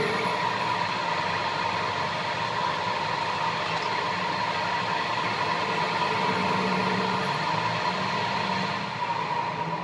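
A machine running steadily, a constant mechanical noise with a steady hum, easing off slightly near the end.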